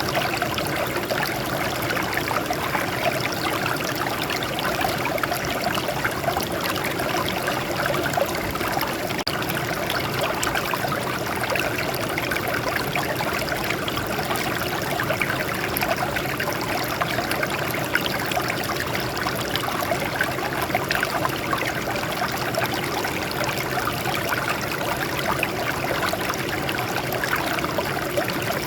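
Water flowing and splashing over rocks, a steady babbling stream.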